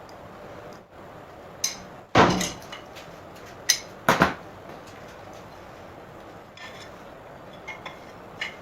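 Metal parts and tools clinking and knocking as they are handled during alternator repair work: several sharp strikes, the loudest about two seconds in and a quick double knock around four seconds in.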